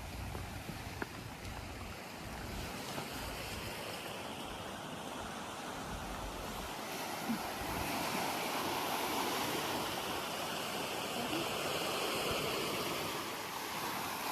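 Steady rushing of sea surf that swells louder about halfway through, with wind buffeting the microphone in the first few seconds.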